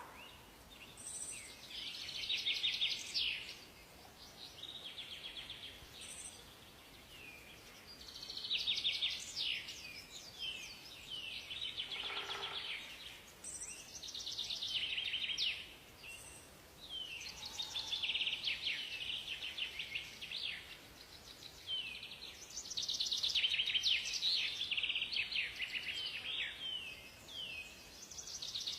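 Several songbirds singing in phrases of rapid chirps and trills, one overlapping another, with a faint background hiss.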